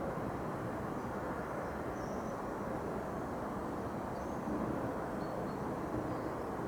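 Distant, steady rumble of a Boeing 767-300 jet airliner cruising high overhead.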